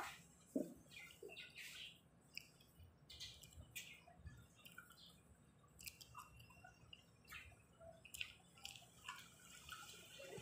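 Near silence broken by faint, scattered wet mouth clicks and smacks of someone chewing soft boiled okra.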